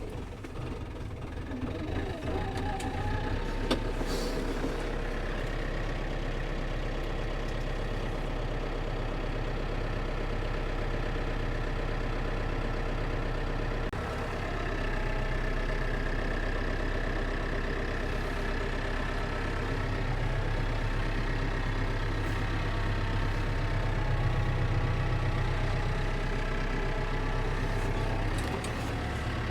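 Case tractor's diesel engine running steadily, building up over the first few seconds and then holding an even note.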